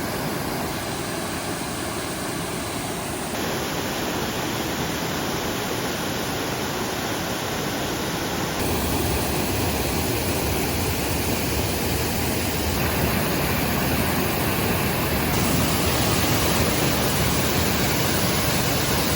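Gooseberry Falls rushing, a steady loud roar of falling water with the river running high after heavy rain. The roar shifts abruptly in character a few times and grows a little louder about nine seconds in.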